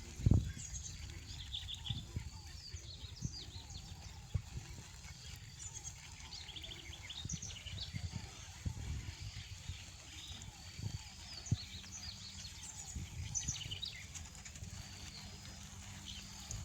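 Small birds chirping and trilling in short repeated phrases, over a low outdoor rumble. Scattered soft knocks sound now and then, the loudest just after the start.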